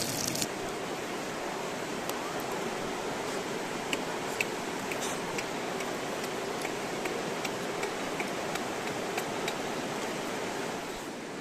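Steady rushing of a river, with sparse faint crackles from a wood campfire.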